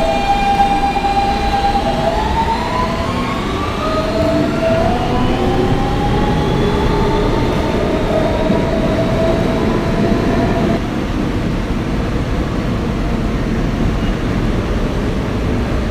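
Kawasaki R160B subway car's Siemens AC propulsion pulling away from a station, heard from inside the car: a steady electric whine that climbs in pitch as the train accelerates, over the rumble of wheels on track. The rising whine fades about eleven seconds in, leaving the rumble.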